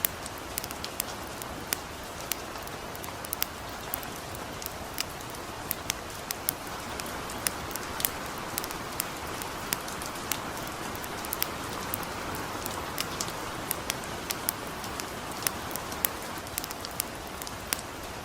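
Steady hiss of light rain with a wood campfire crackling over it: frequent sharp, irregular pops, the loudest sounds.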